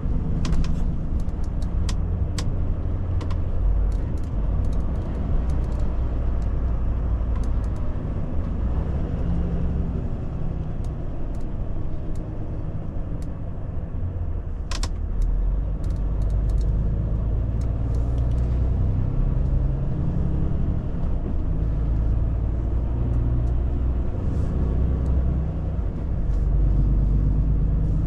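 Volvo FH truck's diesel engine running under way with steady low rumble and road noise, its pitch shifting slightly over time. A few sharp clicks near the start and one louder click about halfway through.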